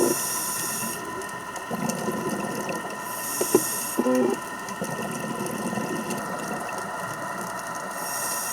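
A scuba diver breathing through a regulator underwater: a hiss about every four seconds as the regulator gives air, with bubbling and a few small clicks and knocks in between.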